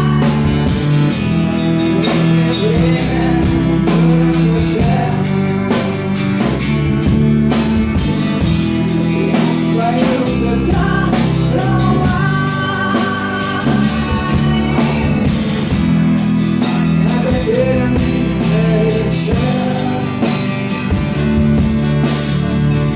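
Live rock band playing an instrumental break: a guitar carries the melody over bass and a drum kit.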